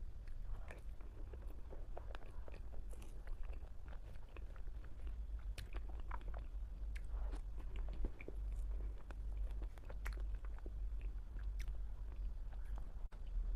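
Close-miked chewing and wet mouth sounds of a person eating mousse cake, with many short scattered clicks and smacks. A steady low hum runs underneath.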